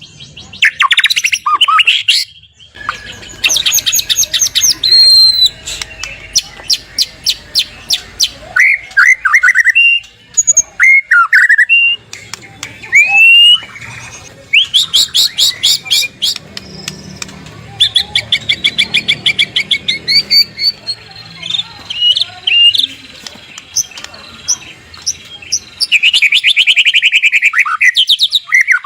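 White-rumped shama singing loudly: runs of fast, rattling repeated notes alternate with short whistled upslurs and downslurs. The rattling 'kretekan' is the agitated, challenging song that is meant to stir other shamas into singing.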